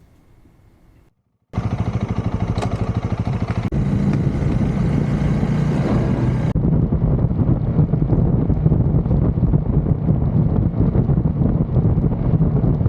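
Motorcycle engine running steadily while riding, with wind on the microphone. It starts abruptly about a second and a half in, after a faint quiet stretch.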